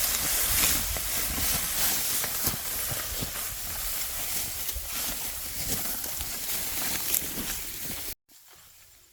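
Dense rustling and crackling of dry rice stalks being handled, with many small snaps and crunches. It cuts off abruptly near the end, leaving a much quieter background.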